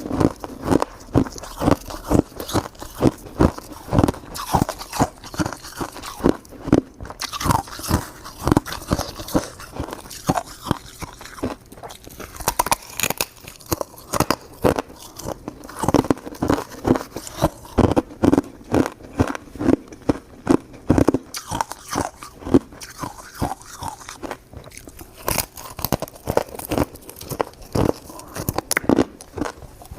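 Close-miked chewing of shaved ice: a steady run of crisp crunching bites, about two a second.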